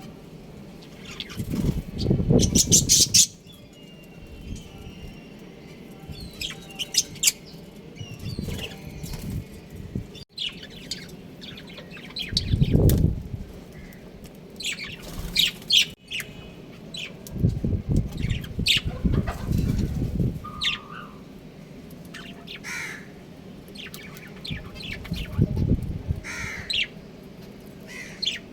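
Pet budgerigars chirping and chattering in short high calls, with several louder bursts of wing flapping scattered among them.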